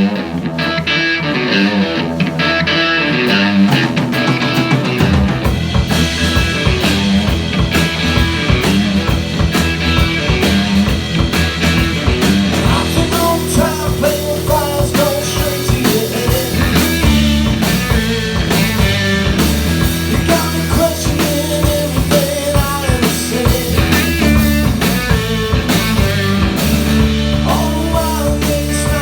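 Live rock band playing loud with electric guitar and drums. The drums and bass fill out about five seconds in.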